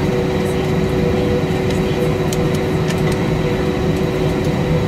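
Steady cabin noise inside an Airbus A320-232: a loud, even rumble with two steady humming tones running through it.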